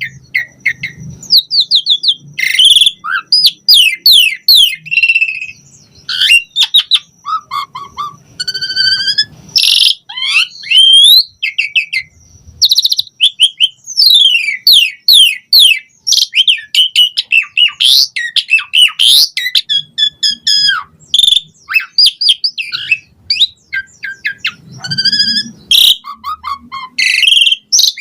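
Asian pied starling (jalak suren) singing a fast, varied song in full voice: quick runs of sweeping whistles and slurred notes mixed with harsher chattering phrases, with only brief pauses between phrases.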